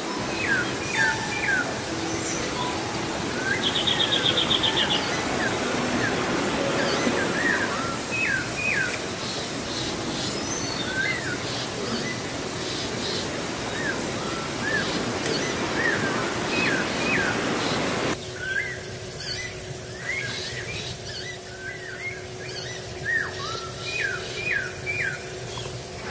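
Small birds chirping, many short repeated calls, over a steady rushing background; about three-quarters of the way through the rushing drops away and a faint steady hum is left under the birdsong.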